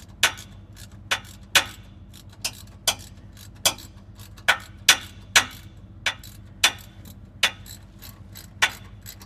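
Hand ratchet clicking as a long rear hub mounting bolt is wound in: a sharp pawl click on each back-swing, irregular, about one or two a second, with fainter ticks between.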